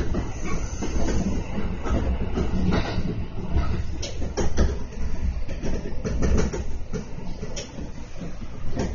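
Kintetsu electric train running, heard from inside the car: a steady low rumble of wheels on rail, broken by short irregular clacks as the wheels cross rail joints.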